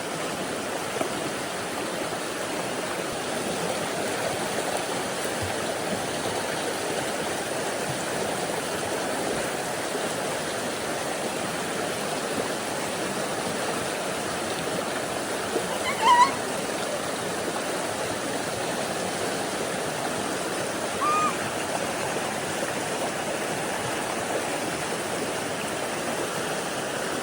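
Storm-swollen mountain creek rushing steadily. Two short high-pitched calls stand out above it: a louder, rising one about sixteen seconds in and a fainter one about five seconds later.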